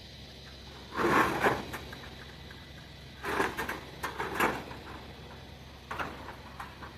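Scrap metal being handled and loaded, in short scraping, clattering bursts: one about a second in, two more around three to four and a half seconds in, and a smaller one near the end.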